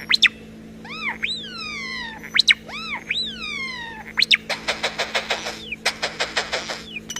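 Starling doing mimicry and electronic-sounding calls: a couple of sharp clicks, then several whistles that swoop up and fall away, then a fast, buzzy rattle of pulses from about halfway in.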